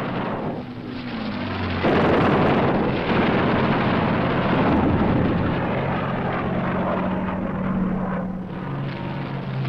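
Propeller fighter plane's piston engine droning, its pitch shifting as it dives. A loud, dense roar cuts in suddenly about two seconds in.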